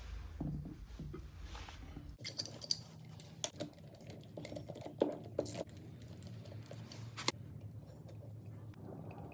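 Faint, scattered clicks and light metallic taps of hand tools and parts being handled during a repair, spread over about five seconds after a low hum dies away near the start.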